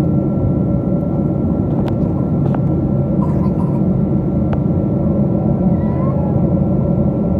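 Steady cabin noise inside a Boeing 777 airliner: a loud, even low rumble with a thin steady whine over it, and a few faint clicks.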